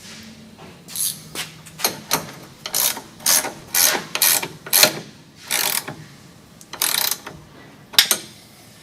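A hand ratchet wrench being worked back and forth, with about a dozen short ratcheting bursts that come unevenly over several seconds.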